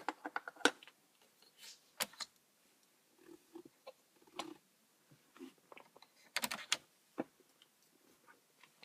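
Scattered sharp clicks and taps of plastic dash trim and tools being handled while parts of a truck dashboard are removed, with a quick cluster of clicks near the start and another about two-thirds of the way through.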